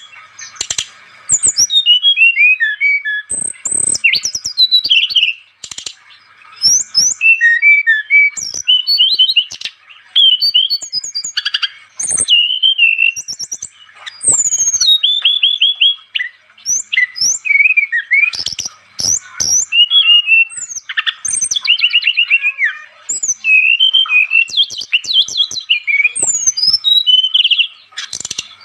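An SRDC songbird singing a rapid, varied song of high chirps, quick trills and fast downward-sweeping notes, in bursts with short pauses between them. It is a bird in full, continuous 'gacor' song, used as a lure call.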